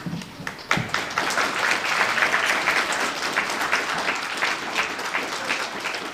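Audience applauding: many hands clapping together, starting less than a second in and easing off slightly toward the end.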